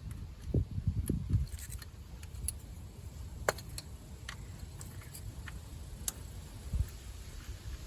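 Scattered handling sounds of work on a car engine: a few soft low knocks in the first second and a half and again near the end, with several sharp light clicks in between, as of tools and parts being handled.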